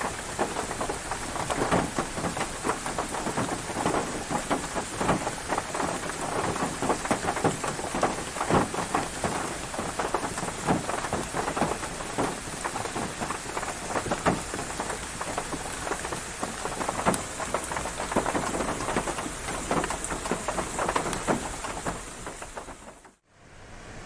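Rain falling, with many individual drops striking close by over a steady wash of noise. It cuts off abruptly near the end.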